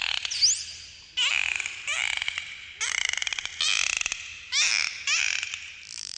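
Dolphins calling: a quick rising whistle, then about six short bursts of rapid clicking and buzzy, squawking pulsed calls.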